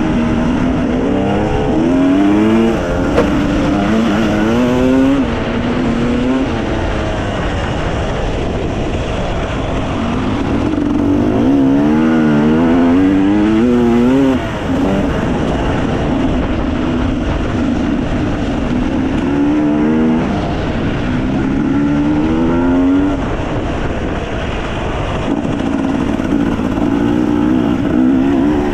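Dirt bike engine running while riding, its pitch rising and falling again and again as the throttle is opened and eased off.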